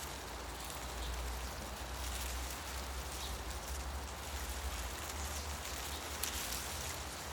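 Forest ambience: wind rustling the leaves of the trees as a steady hiss, over a steady low rumble of wind.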